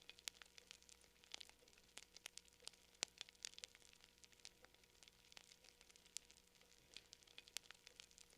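Campfire crackling faintly: irregular sharp pops and snaps over a soft hiss, with one sharper pop about three seconds in.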